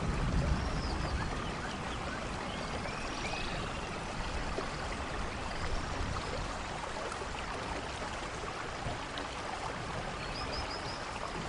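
Steady rain falling, with the low rumble of a thunder roll dying away in the first second or two. A few short high chirps sound over the rain.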